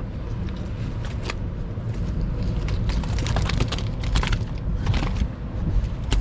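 Strong wind buffeting the microphone with a heavy, steady rumble, and a run of small sharp clicks and crackles in the middle and another near the end.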